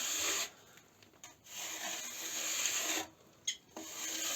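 A steel spatula scraping and rubbing over freshly wetted tile-adhesive plaster, smoothing a bark-textured finish in three long strokes of about a second each.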